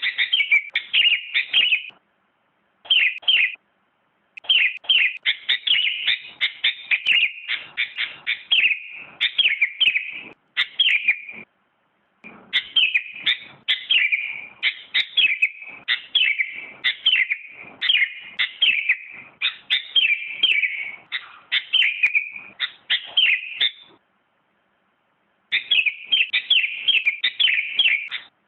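Sooty-headed bulbul (kutilang) singing in fast runs of short, falling chirps, broken by brief pauses, the longest about a second and a half near the end.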